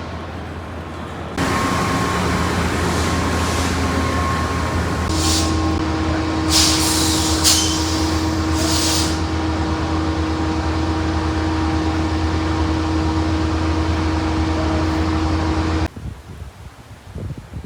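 Factory machinery running with a loud, steady hum, with several short hisses of air a few seconds in. The sound starts and stops abruptly.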